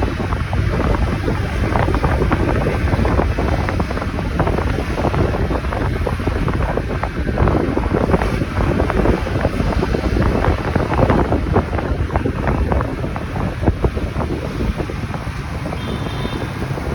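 Wind buffeting the microphone on a moving motorcycle, a loud, steady rush that is heaviest in the low end, with engine and road noise underneath. A brief faint high tone comes in near the end.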